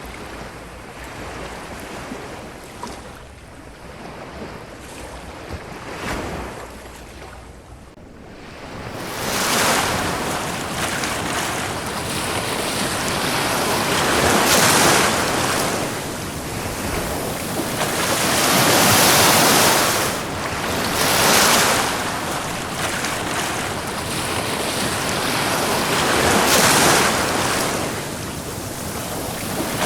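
Ocean surf washing onto a beach, swelling and falling back every few seconds. It is softer for the first eight seconds or so, then grows louder with bigger surges.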